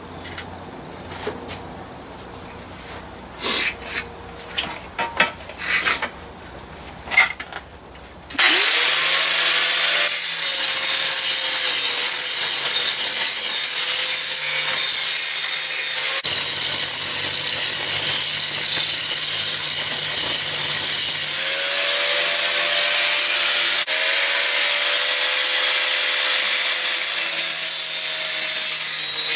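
A few knocks and clicks of handling, then about eight seconds in a power grinder spins up suddenly and runs steadily, grinding into a spring-steel blade. Its pitch shifts slightly a few times as the load changes.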